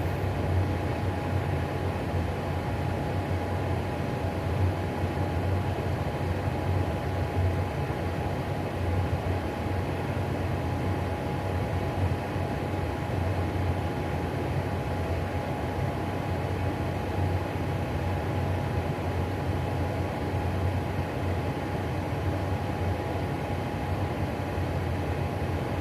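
Atwood RV propane furnace running steadily: its blower fan and lit burner give an even whir with a low hum and a faint steady whine. The fan runs smoothly, the sign of a furnace that has ignited properly and is in good working order.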